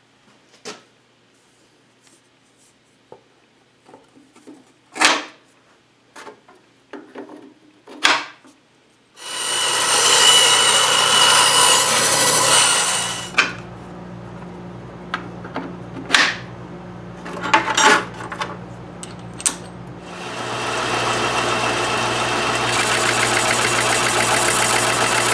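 Scattered clicks and knocks of handling at first, then a machine tool's motor starts and cuts UHMW plastic. The cutting is loud for about four seconds, the motor runs on more quietly with a few clicks, and a second long stretch of cutting begins about 20 seconds in.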